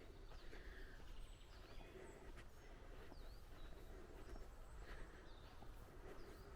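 Faint bird calls in pine woodland: short dipping-and-rising chirps about once a second, with a few thin high notes, over a steady low rumble.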